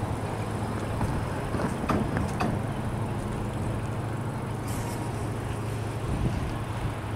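Open-top freight cars rolling away on the rails with a steady low rumble. Wheels click a few times over the track in the first two and a half seconds.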